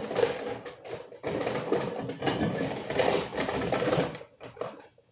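Bowls and dishes clinking and clattering against each other as someone rummages through a kitchen cupboard, busy at first and thinning out near the end.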